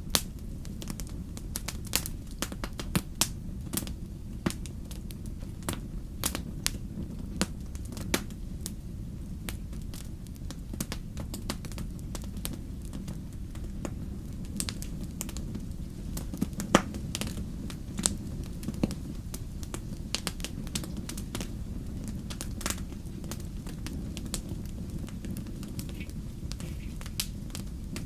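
Wood bonfire burning, with irregular sharp crackles and pops over a steady low rumble, a few pops louder than the rest.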